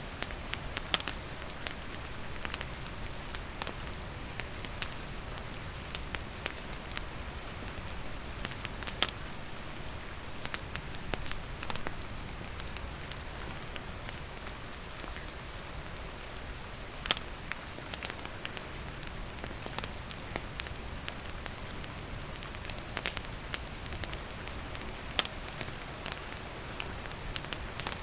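Steady rain falling on surfaces, with a campfire crackling: irregular sharp pops and snaps of burning wood over the even hiss of the rain.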